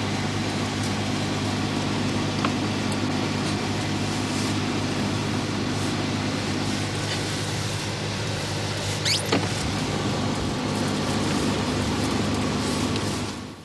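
Steady motor-vehicle running noise with a low hum, a brief squeak about nine seconds in, and the sound cutting off abruptly at the end.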